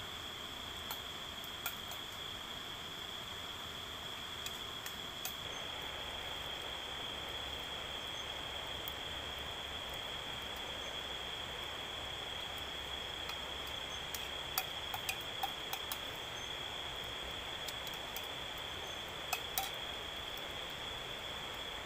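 A steady high-pitched insect drone with scattered sharp clicks and taps, a cluster of them about two-thirds of the way through and two more near the end.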